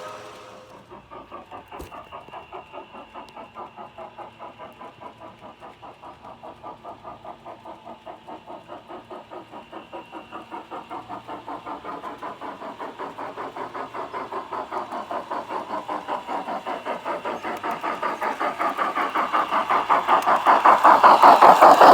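Steam-locomotive chuffing from the Phoenix Sound system's speaker in a G-scale USA Trains Santa Fe Hudson model. It is a steady, even chuff at a few beats a second that grows louder over the last ten seconds.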